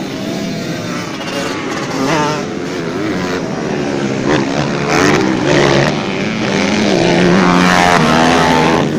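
Several motocross bike engines revving as they race, their pitches rising and falling and overlapping; loudest and steadiest near the end.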